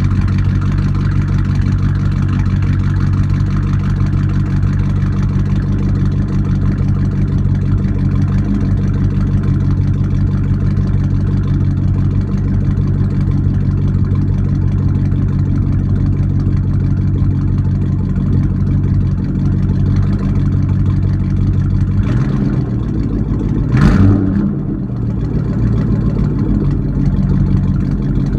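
2002 GMC Sierra's 5.3L Vortec V8 idling steadily through straight Y-pipes with no mufflers, warming up after a cold start. A brief louder burst about 24 seconds in, then the idle runs on.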